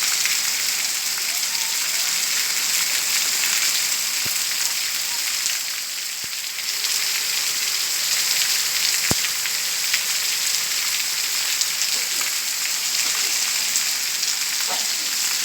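Heavy rain falling steadily, a dense even hiss of drops with a few faint individual taps.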